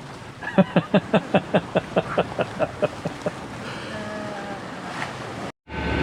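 A person laughing, a quick run of about a dozen short 'ha' pulses that fade away, over steady wind and water noise. The sound drops out abruptly near the end.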